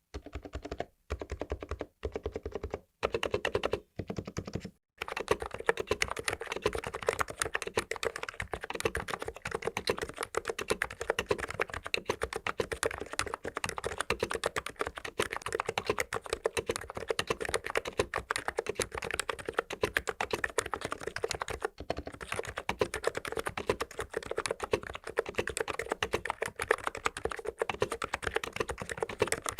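Typing on an ABKO KN02C tenkeyless keyboard with 45 g Noppoo-type capacitive switches. For the first five seconds it comes in short runs of keystrokes with brief pauses about once a second, then becomes steady, fast typing.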